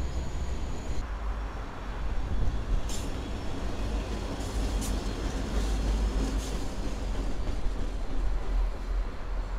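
BNSF diesel-electric locomotives rolling past close by: a steady low engine rumble with wheels running on the rails, and a few short, sharp high clicks or squeals in the middle.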